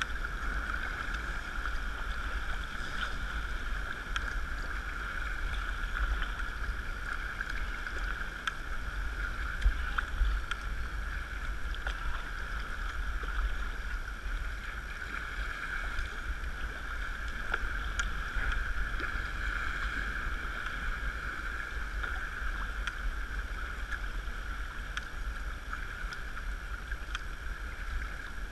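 Sea kayak under way: water rushing and lapping steadily against the hull, with a low wind rumble on the microphone and a few faint ticks.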